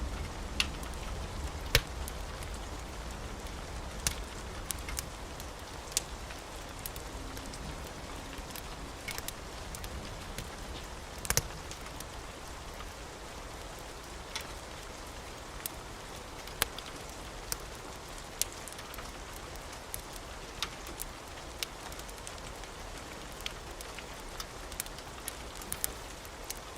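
Wood fire crackling in a fireplace: a steady hiss with irregular sharp pops, the loudest about two seconds in and about eleven seconds in.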